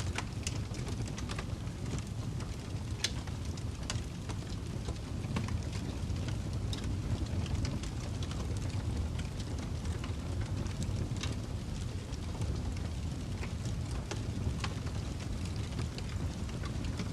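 Fireplace fire burning: a steady low rumble of flames with irregular crackles and pops from the burning wood.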